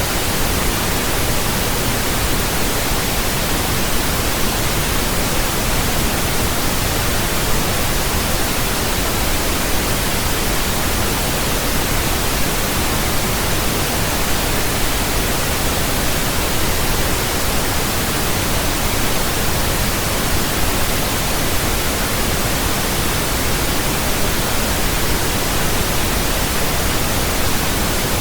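Steady pink noise: an even, unchanging hiss spread across all pitches, deeper than white noise, with no events or changes.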